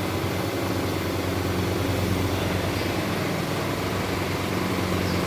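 Steady low hum of running machinery, with a constant even hiss over it.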